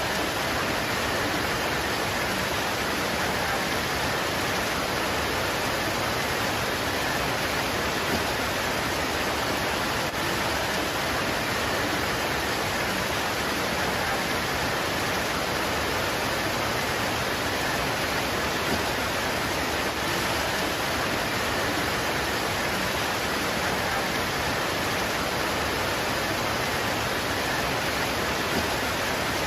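Steady heavy rain falling on leaves, an even hiss of drops.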